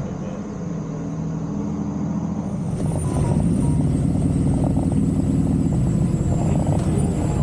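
Motorcycle engine running under way, its low hum growing louder about three seconds in.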